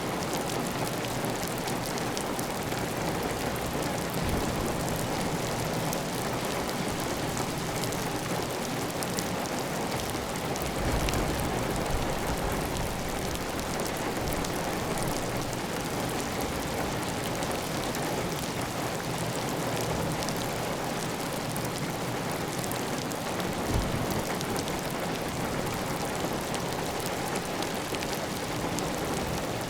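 Heavy, steady rain pattering on a clay tile roof, with water running off the roof edge. Two brief low thumps come about eleven and twenty-four seconds in.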